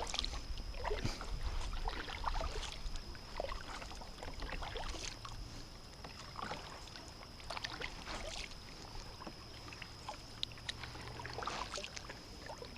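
Quiet sounds aboard a kayak on the water: scattered light clicks and small knocks over a faint low rumble, with a thin steady high-pitched whine throughout.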